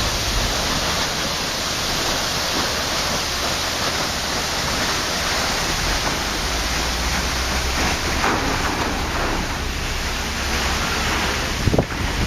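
Waterfall rushing steadily in a dense, even roar of falling water. There is a brief low knock near the end.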